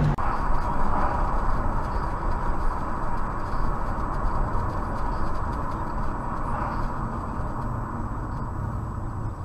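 Steady road noise of a moving vehicle, an even rushing with no distinct events, easing off gradually toward the end.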